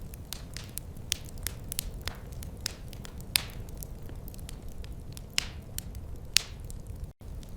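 Wood fire crackling in a fireplace: irregular sharp pops and snaps, some loud, over a steady low rumble of the flames. The sound drops out for an instant just before the end.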